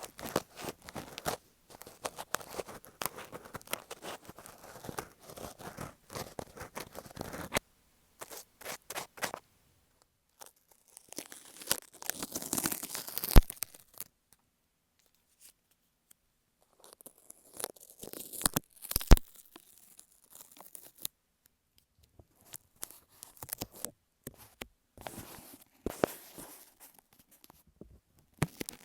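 Ear pick scraping and scratching against an in-ear earphone microphone: irregular close scratching strokes with a few pauses of a couple of seconds, loudest about twelve and nineteen seconds in.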